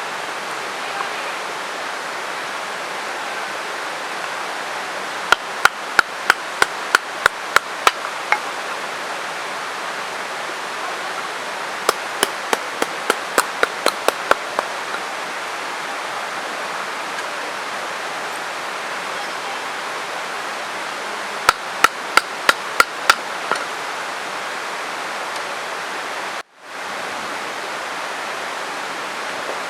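Three runs of sharp wooden knocks, about three a second, as a knife is batoned through firewood to split kindling, over the steady rush of a mountain stream.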